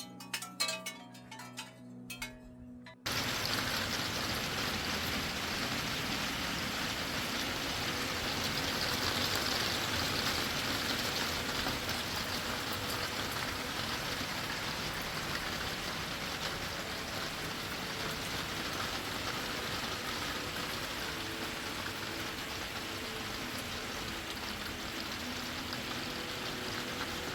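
A few chiming, ringing tones, then heavy rain falling steadily, cutting in abruptly about three seconds in.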